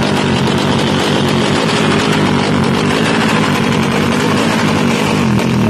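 Drag-racing motorcycle engine running loudly at a steady, high speed, without clear rises or falls in pitch.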